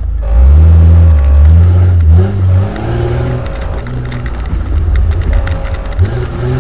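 Car engine heard from inside the cabin, revving up and down as it pulls. A heavy low rumble is loudest for the first two seconds or so, then eases.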